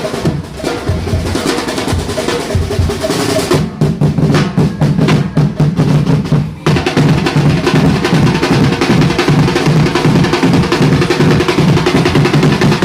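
Parade drumline of snare and bass drums playing a marching beat, with a fast snare roll about halfway through before the steady beat resumes.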